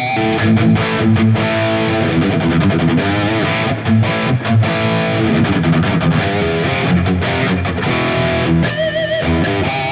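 Electric guitar played through the high-gain amp model of a Valeton GP-200 modelling unit, heavily distorted: a chugging rhythm riff mixed with sustained notes, ending on a held note with vibrato about nine seconds in.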